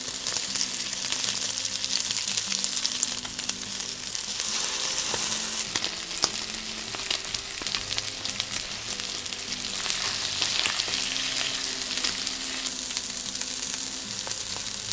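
Egg-battered oyster pancakes (oyster jeon) sizzling steadily in hot oil in a frying pan, full of small crackles, with now and then a light tap as wooden chopsticks turn them.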